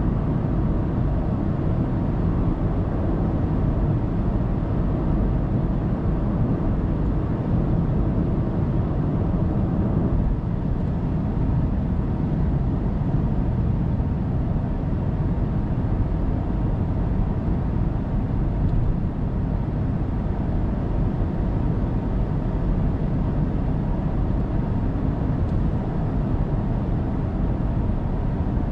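Steady road and tyre noise with engine drone from a car cruising at speed on an expressway, heard from the dashcam inside the cabin. The sound is a constant low rumble that barely changes.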